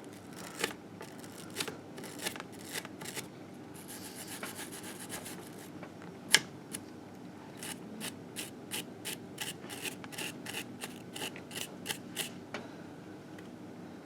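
Hand scrubbing and scraping on a 1958 Harley-Davidson Sportster engine case to clear old grime: a run of short strokes, with one sharp click about halfway through and quicker, even strokes of about two or three a second in the second half.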